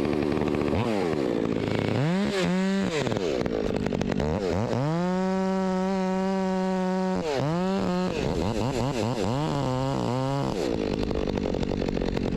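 Two-stroke chainsaw idling, revved up about two seconds in, held at full throttle for a couple of seconds mid-way, then dropped and revved again with several quick throttle blips before settling back to idle.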